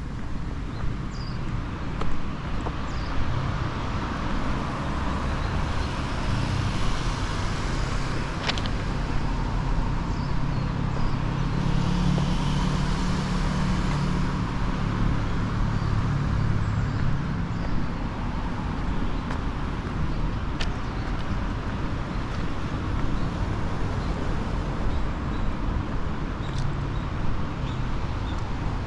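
Steady road traffic noise, with a vehicle's low engine hum swelling and fading away in the middle.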